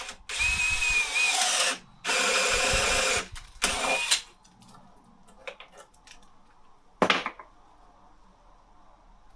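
Power drill running in three short bursts, one after another, with a steady motor whine, then one brief burst about seven seconds in.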